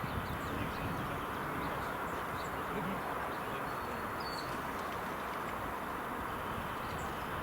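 Steady rushing noise of riding a bicycle, wind and tyre noise on the microphone, with a few faint, short bird chirps.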